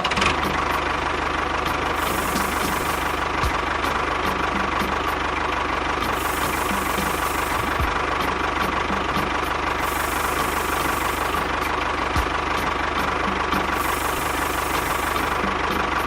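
An engine-like mechanical drone running steadily and evenly, with a steady high whine over a low rumble and faint regular ticking, from a mini model tractor or bulldozer at work.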